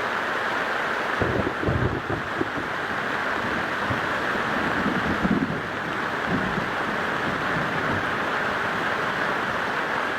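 Wind buffeting the microphone in low gusts over a steady rushing hiss.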